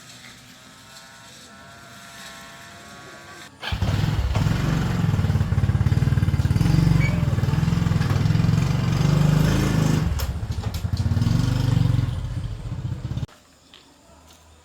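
A motor running loudly with a deep, steady sound, starting suddenly about four seconds in and cutting off near the end.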